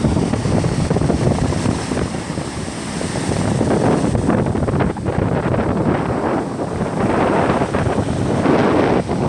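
Stormy sea: heavy surf rushing and breaking, swelling louder several times, with strong wind buffeting the microphone.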